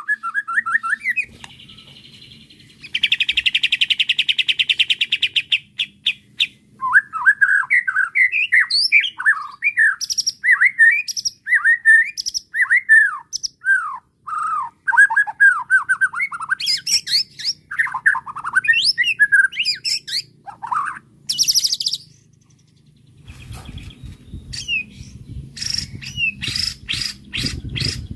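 White-rumped shama (murai batu) singing a long, varied song: a rapid buzzing trill, then a run of quick whistled phrases sweeping up and down, and near the end sharp high notes over a low background noise.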